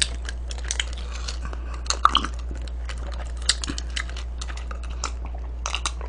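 Close-miked chewing of a mouthful of food, with irregular crisp crunches and smacks, over a steady low hum.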